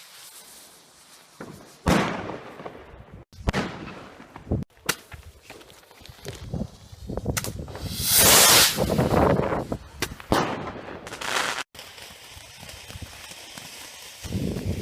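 Fireworks and firecrackers going off: a string of sharp bangs, several trailing off in a crackling hiss, with the loudest and longest burst about eight seconds in.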